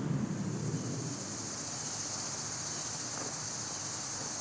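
Outdoor background noise: a steady high hiss, with a low rumble that fades out about a second in.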